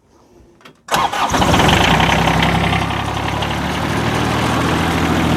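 John Deere compact tractor's three-cylinder diesel engine running steadily while warming up after a cold start, cutting in abruptly about a second in.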